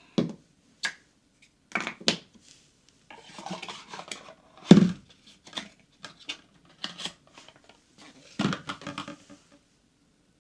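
Hard objects being handled and set down on a hard surface: a run of irregular knocks, clinks and clatters with some scraping between them, the loudest knock about five seconds in.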